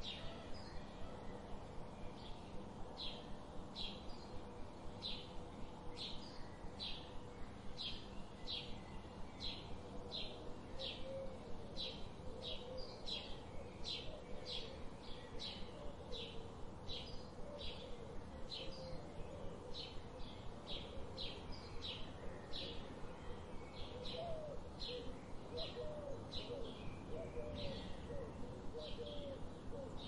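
Birds calling: one bird gives short high chirps at about two a second, with softer, lower curving notes from another bird joining about a third of the way in.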